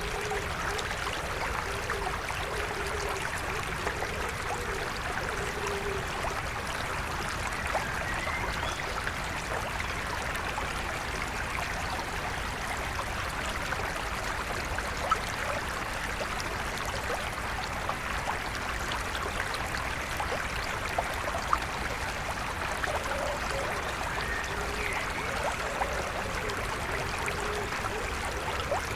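A stream flowing steadily, with a few faint bird chirps and a few brief sharp ticks from the water.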